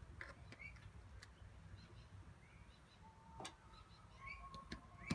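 Faint birds chirping, short rising calls repeated every second or so, over a near-silent background, with a couple of light clicks.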